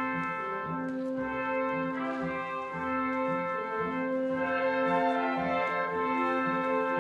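Orchestral music led by brass, with a French horn playing slow held notes over a sustained low bass note.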